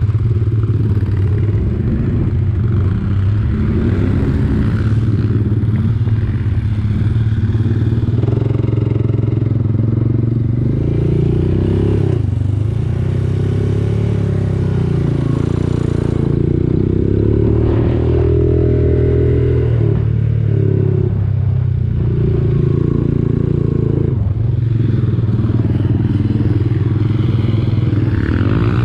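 Quad bike (ATV) engine running under way, its pitch repeatedly rising and falling as the throttle is opened and eased, with some clatter.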